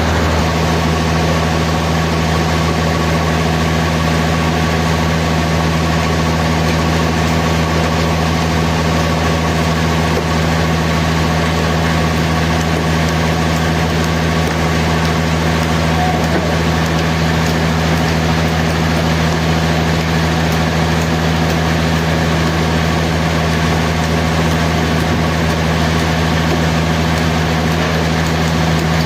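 Sawmill machinery's motor running steadily with a constant low hum, without change in pitch or load.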